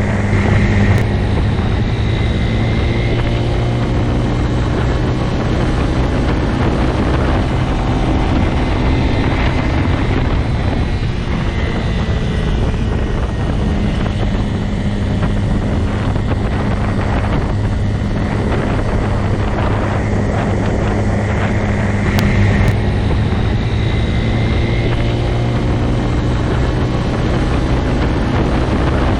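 Motorcycle engine running at a steady speed, a constant low drone that swells briefly twice.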